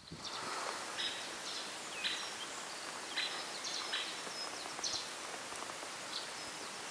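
Steady hiss of rain outdoors, with short bird chirps now and then.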